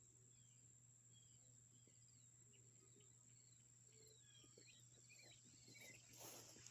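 Faint birds chirping, over a steady high thin drone like an insect's. Rustling starts near the end.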